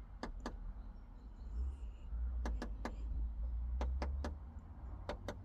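A white wagtail pecking and fluttering against a car's tinted side window: sharp taps on the glass, mostly in quick pairs, over a low rumble. It is attacking its own reflection, taking it for a rival.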